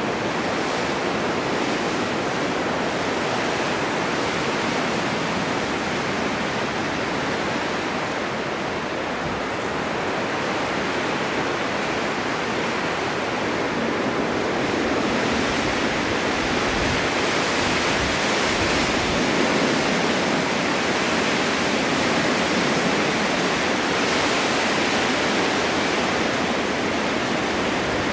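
Steady winter wind blowing in gusts, a continuous hiss that swells a little about halfway through.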